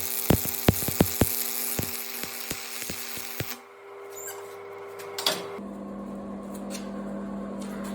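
Stick-welding arc crackling and popping with a steady hum, stopping suddenly about three and a half seconds in as the arc is broken. A single knock follows, then a quieter steady low hum.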